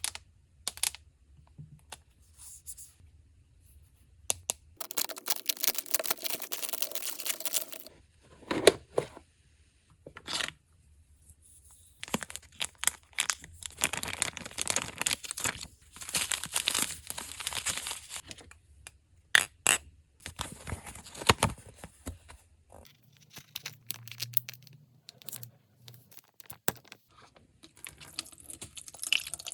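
Toy packaging being opened by hand: plastic wrappers tearing and crinkling in stretches of a few seconds, broken by sharp clicks and taps of small plastic parts.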